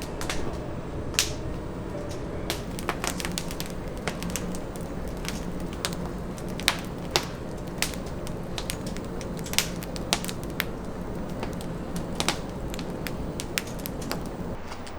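Oak-wood fire crackling, with irregular sharp pops and snaps over a steady low rumble.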